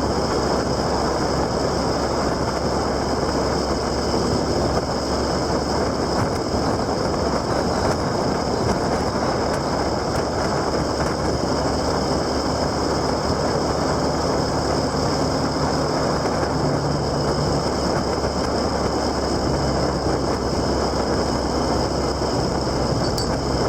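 Steady wind and road noise of a moving ride, with a faint low engine hum that shifts pitch about halfway through.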